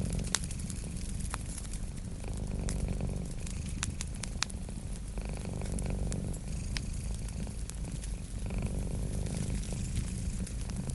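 Domestic cat purring steadily, the purr swelling and easing about every three seconds with its breaths. Sharp pops and crackles from a wood fire are scattered through it.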